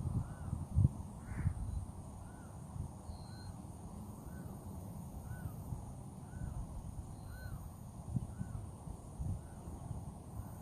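A bird calling over and over, a short note about every 0.7 seconds. Low thumps on the microphone, loudest about a second in.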